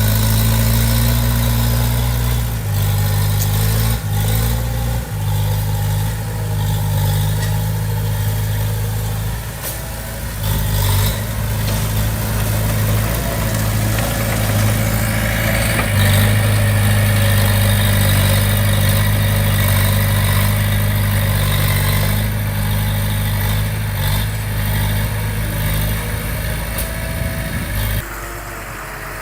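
Diesel engine of heavy earthmoving equipment running under load, its note stepping up and down several times, with a few short knocks in the first half and a drop in level just before the end.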